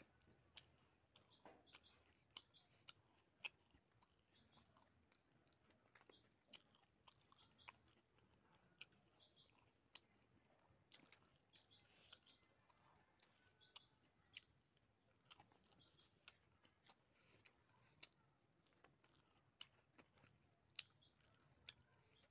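Faint close-up chewing of pork: soft wet mouth clicks and smacks about once a second.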